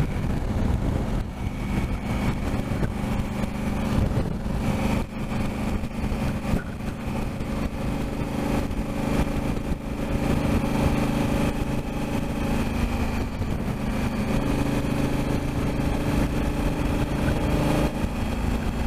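Motorcycle engine running at a steady cruising pace while riding, with wind rushing over the microphone.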